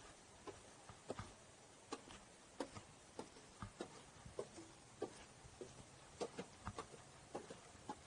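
Footsteps of a person walking on a forest trail: a string of short, sharp steps and ticks, roughly one to two a second, over faint background hiss.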